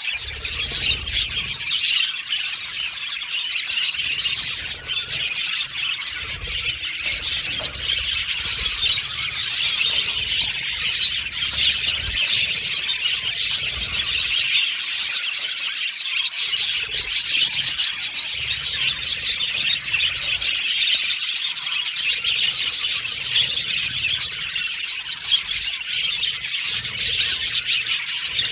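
A flock of budgerigars chattering and chirping continuously, many high, quick warbling calls overlapping.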